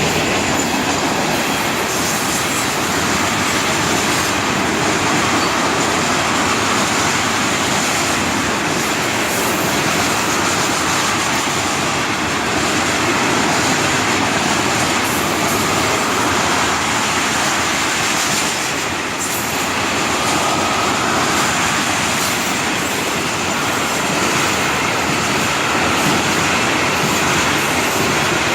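Florida East Coast Railway freight cars rolling past close by: a steady, loud rumble and rattle of steel wheels on the rails.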